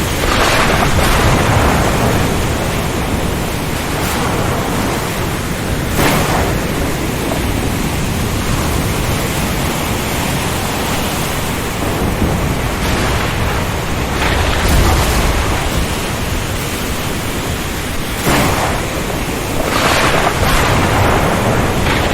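Storm at sea: heavy rain and strong wind over ocean surf make a dense, steady rushing noise with low thunder rumbling underneath. A few sudden sharp cracks cut through, about six seconds in and again later on.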